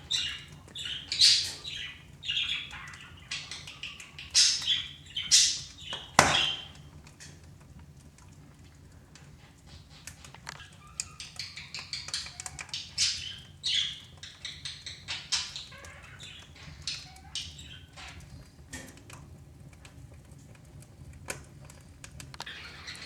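Wood fire crackling and popping in a small wood-burning stove, irregular sharp snaps, the loudest of them in the first six seconds and quieter crackles after.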